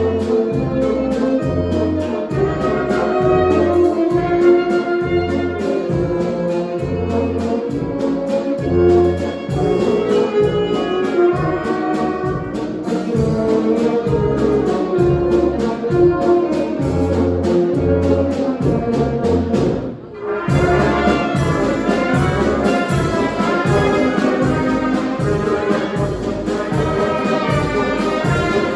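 Brass band playing a waltz, with brass melody over a steady bass note on each bar's downbeat. The music drops away briefly about twenty seconds in, then resumes.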